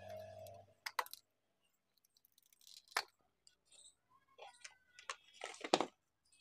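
Small metal parts of an angle grinder clicking, clinking and scraping as its gearbox and armature are taken apart by hand, with separate sharp clicks about one and three seconds in and a cluster of scrapes and clicks near the end, the loudest among them. A low hum at the start stops within the first second.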